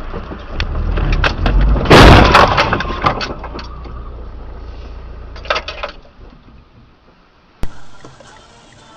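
Car collision: a loud crash about two seconds in, followed by glass shattering and debris clattering for about a second. A second short clatter follows a few seconds later, over low vehicle rumble.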